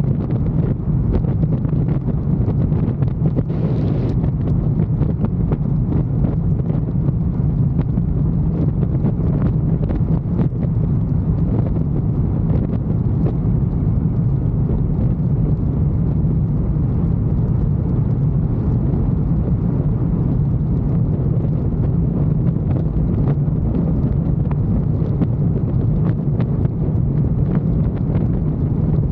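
Motorcycle engine running steadily at a constant speed on the road, with wind rushing over the microphone.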